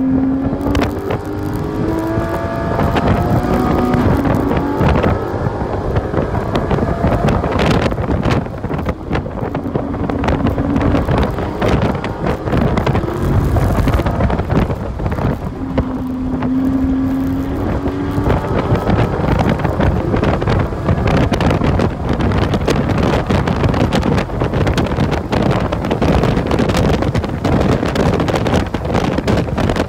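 Porsche 981 Cayman S's flat-six engine heard from inside the cabin, revving up hard through the gears under full acceleration, rising in pitch repeatedly. Heavy wind and road noise runs under it, with a few short steady tones along the way.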